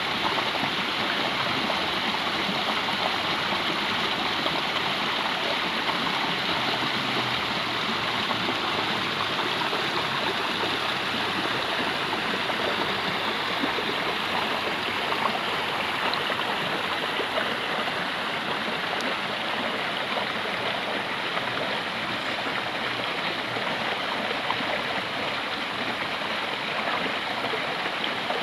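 Water of a small stream running over rocks, a steady, continuous rush with no breaks.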